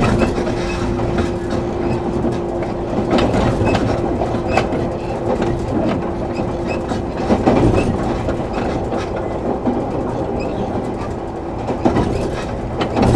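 Running sound inside a 113 series 7700 subseries electric train car in motion. The wheels click over rail joints, and a steady hum fades out about halfway through.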